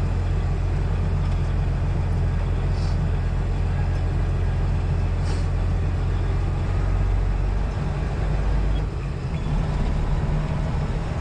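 Semi truck's diesel engine running steadily with a low drone; its note shifts about eight to nine seconds in.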